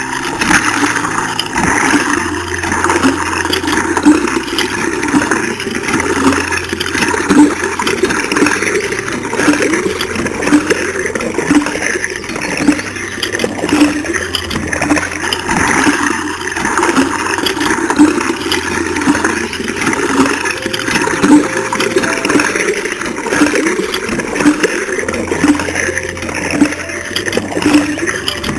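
Homemade mini water pump running, with water rushing and splashing steadily and a regular pulsing throughout.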